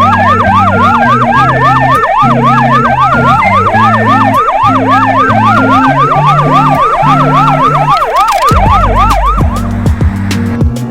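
Electronic siren in a fast yelp, sweeping up and down about three times a second, over background music; the siren cuts out near the end.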